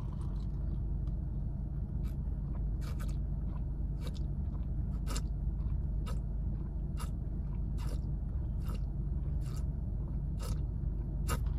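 A person chewing crunchy food close to the microphone, with a sharp crunch about once a second. A steady low hum from the idling car runs underneath.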